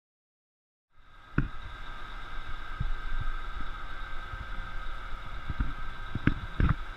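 Scania lorry-mounted Fassi F800 loader crane at work: a steady high whine over a low engine rumble, starting about a second in, with a few sharp knocks, the loudest about a second and a half in and twice near the end.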